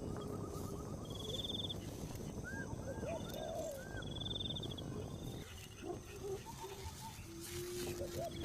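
Several birds calling: short high trills repeated every second or so, runs of quick rising-and-falling chirps, and a couple of low held whistled notes near the end, over a steady background hiss.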